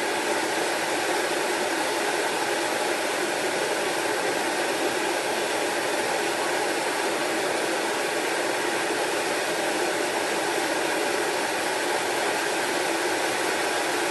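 Kitchen range hood exhaust fan running at speed: a loud, steady rush of air, switched off with a click right at the end.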